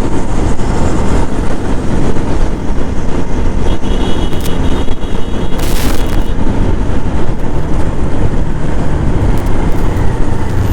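Wind buffeting the microphone at riding speed, over the running of a TVS Apache RTR 4V motorcycle, as a loud steady rush with no let-up. A brief hiss sounds about six seconds in.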